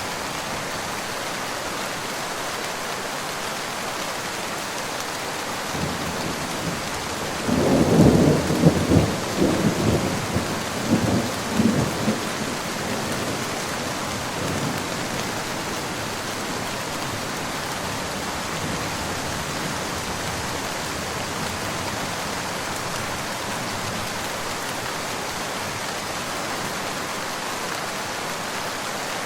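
Steady rain falling, with a roll of thunder that rumbles in about six seconds in, peaks with several cracking pulses around eight to twelve seconds, and fades away by about fifteen seconds.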